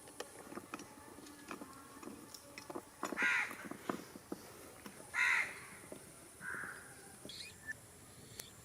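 A crow cawing: two loud half-second caws a couple of seconds apart, then a fainter call. Small scattered clicks and taps run underneath.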